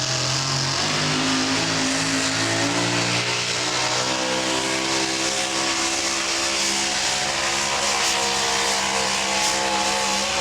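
Super modified four-wheel-drive pulling truck's engine running at full power down the track during a pull, its pitch climbing over the first few seconds and then holding steady and high.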